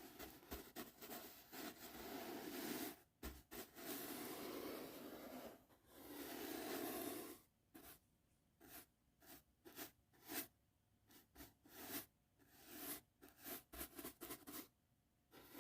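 Soft brush bristles stroking across the microphone: a continuous brushing hiss for the first half, then short separate strokes with quiet gaps between them.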